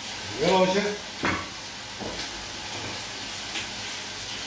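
Chopped onion frying in oil in a pot, giving a steady sizzle, with a few light scrapes of a vegetable peeler on a carrot.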